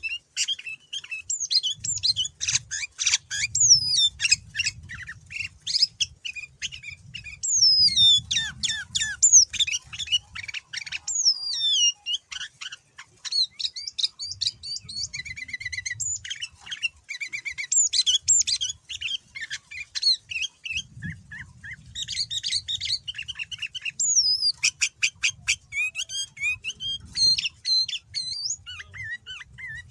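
Sooty-headed bulbul (kutilang) singing non-stop: a varied, continuous run of chirps, clear whistles and fast sweeping notes, with short trilled passages, a song rich in borrowed phrases ("full isian").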